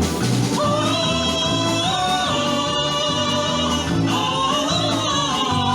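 Singing over a rhythmic backing accompaniment: a voice holds long notes, stepping and gliding between them, over a steady bass beat.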